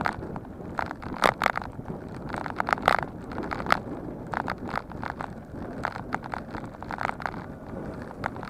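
Bicycle being ridden over rough ground, its parts rattling and clicking irregularly over a steady rush of wind and tyre noise.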